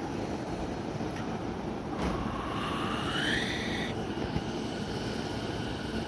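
Sotetsu 12000 series electric train running, with a steady rumble. About two seconds in, its inverter motor whine rises in pitch, holds for a moment and cuts off suddenly.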